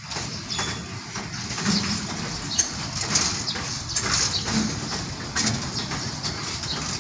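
Slow-moving freight train of cement tank wagons rolling along the track, its wheels giving irregular clicks and knocks on the rails, with the diesel locomotive's engine running underneath.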